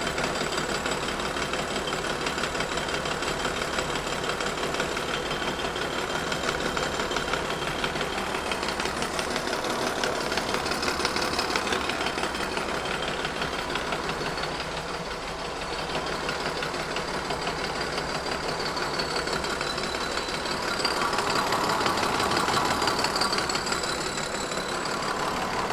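Kearney & Trecker 2HL horizontal mill taking a power-fed 50-thousandths cut across a cast iron straight edge with ground carbide inserts: a steady, rapid patter of the inserts striking the iron over the hum of the machine's drive. It swells slightly near the end, and the pass leaves a good finish.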